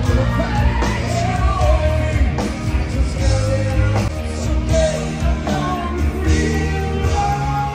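Rock band playing live at a sound check: drums, heavy bass and a wavering melody line, likely a singing voice.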